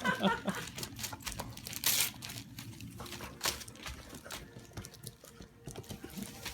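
Wrapping paper crinkling and tearing in irregular rustles as a dog rips open a present, with the loudest tear about two seconds in.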